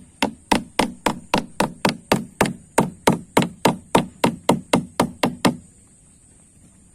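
A hammer driving nails into wood, a quick even run of about twenty blows, roughly three and a half a second, that stops about five and a half seconds in.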